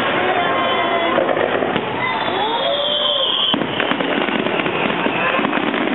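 Fireworks going off in a steady crackle, with a high whistle starting about two seconds in that cuts off sharply a second and a half later; crowd voices underneath.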